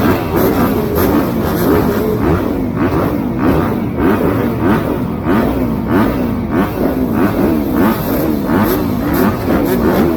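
Several motocross bikes racing, their engines revving up and dropping again and again as the riders open the throttle and shift through the gears.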